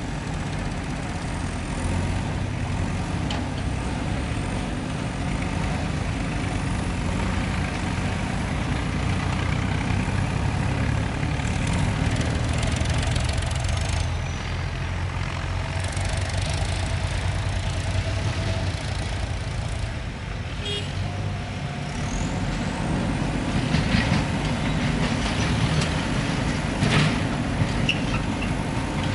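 JCB backhoe loader's diesel engine working under load, its low hum swelling and easing as the machine works, with a few sharp knocks near the end.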